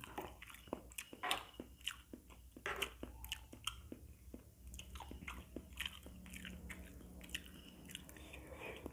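Chewing of Indomie mi goreng fried noodles with fried egg, with many short clicks at an irregular pace, a few a second.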